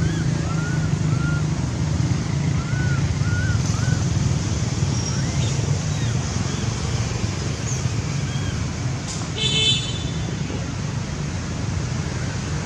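Steady low outdoor rumble, like traffic, with a run of short rising-and-falling chirps in the first few seconds and a brief horn-like toot about nine and a half seconds in.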